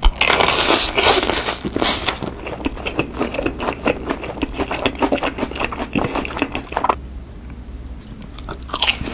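A crisp bite into a battered, deep-fried chili pepper, then loud crunchy chewing. The chewing fades about seven seconds in, and another crunch comes near the end.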